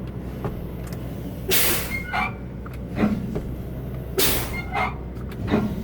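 Kenworth dump truck's air brakes being applied and released twice, each with a short, sharp hiss of air about two and a half seconds apart, over the steady idle of its diesel engine.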